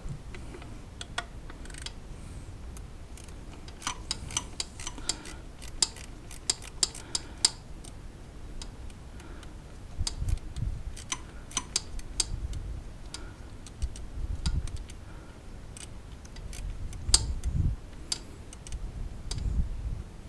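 Hand ratchet clicking in short quick runs, mixed with clinks and knocks of tools and parts, as coil pack bolts are worked on an engine. A louder knock comes about 17 seconds in.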